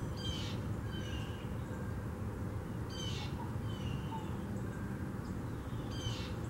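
Birds calling: short high chirps that come every second or two, over a steady low rumble of background noise.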